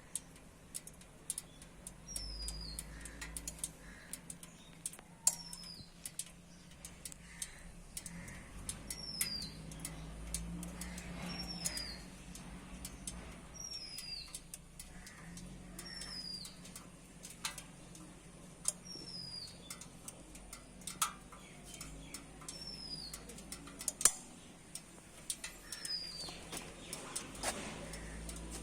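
A bird repeating a short, high, falling call every two to four seconds, with scattered faint clicks and a low steady hum behind it.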